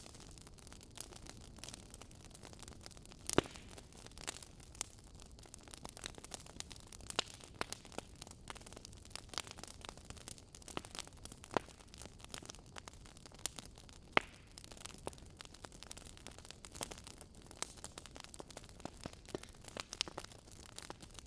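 Wood fire crackling in a fireplace: a steady low hiss with irregular sharp pops and snaps, the loudest pops about three and fourteen seconds in.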